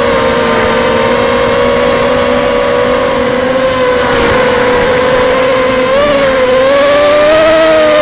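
Blackout 250 mini quadcopter's electric motors and propellers whining in flight: a steady pitched buzz that wavers up and down a little with throttle about six seconds in and again near the end. The owner thinks it sounds like at least one motor is on its way out.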